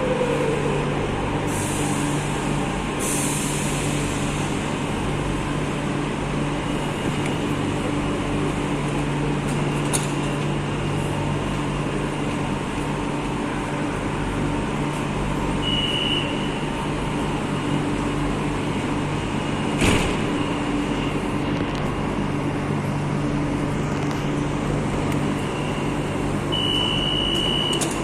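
Madrid Metro train standing at the platform with a steady electrical and air-conditioning hum, two short air hisses a couple of seconds in, a sharp click near the middle, and two short high beeps, one around halfway and one near the end.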